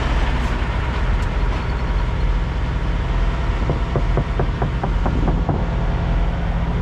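Semi-truck diesel engine idling with a steady low rumble. A short run of quick, light ticks comes in about four seconds in.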